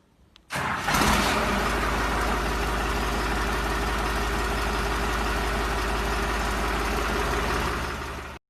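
Tractor diesel engine comes in suddenly about half a second in and runs at a steady idle, until the sound cuts off abruptly near the end.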